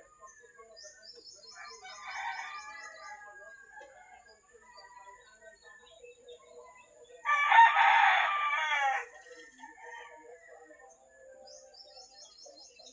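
A rooster crows loudly once, about seven seconds in, for just under two seconds; a fainter, more distant crow comes around two seconds in. Rapid high chirping from small birds comes and goes.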